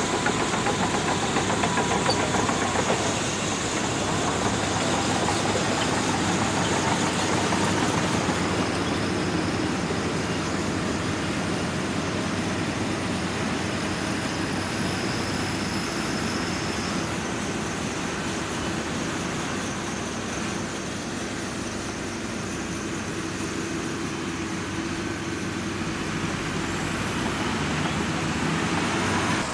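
Shantui DH17C2 bulldozer's diesel engine running steadily as it works. It eases off a little in the middle and picks up again near the end.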